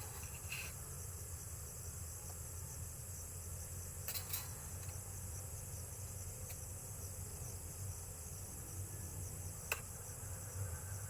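Steady chorus of night insects, a continuous high trilling, with a few short clicks in between.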